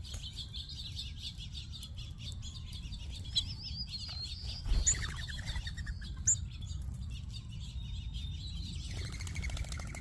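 Many small seed-eating birds at a feeder chirping and twittering continuously in a dense, overlapping chatter, over a steady low rumble, with a few louder short sounds around the middle.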